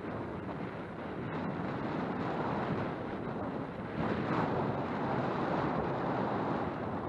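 Wind buffeting a helmet-mounted microphone during a trail ride, a steady rushing noise that grows louder about four seconds in.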